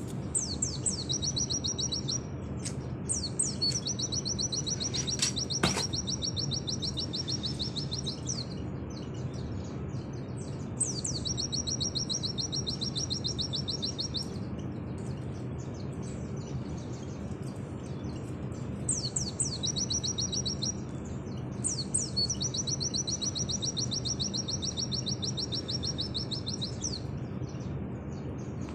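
White-eye (pleci) singing long, very fast trills of high repeated notes: the 'nembak' song prized by Indonesian bird-keepers. Five phrases of about two to five seconds each, each opening with a few quick upward sweeps, with short pauses between them, over a steady low hum.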